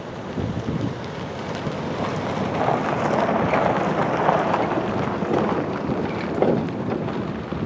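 Tank cars of a freight train rolling past at track speed: a steady rumble and clatter of steel wheels on rail, growing louder about two seconds in, then cutting off suddenly.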